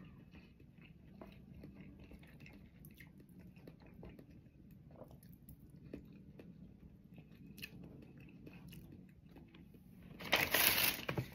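A person chewing crispy fried chicken close to the microphone, with soft crunches and small mouth clicks. About ten seconds in, a loud crinkling of a paper takeout bag starts.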